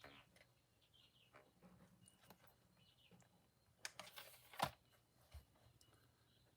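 Quiet handling of paper and cloth on a craft table: scattered faint clicks and short rustles, with a brief louder rustle and click about four seconds in.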